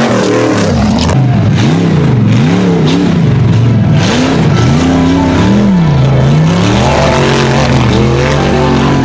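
An off-road race vehicle's engine revving hard, its pitch surging up and down about once a second and then holding steadier near the end.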